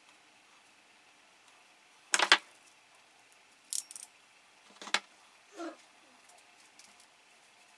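Small metal parts or tools clinking and rattling on a workbench: a sharp cluster of clinks about two seconds in, the loudest, then a few more around four and five seconds and a softer dull knock just after.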